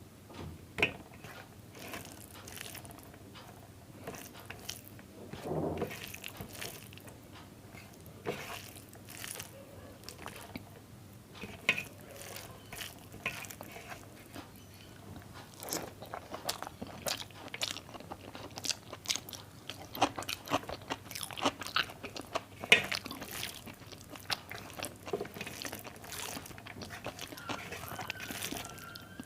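Close-miked eating sounds: chewing with wet mouth clicks, smacks and occasional crisp crunches, coming irregularly and busier in the second half.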